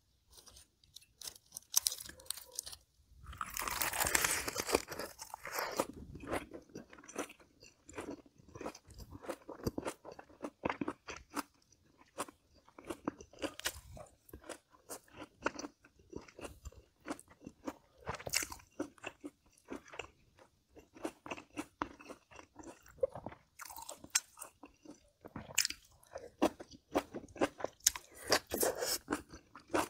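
Close-miked eating: a long, loud crunching bite into a lettuce and perilla-leaf wrap a few seconds in, then steady chewing with many short, crisp crunches.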